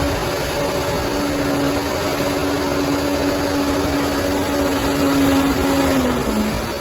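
Bulldozer's diesel engine running steadily, with its pitch dipping briefly near the end before picking up again.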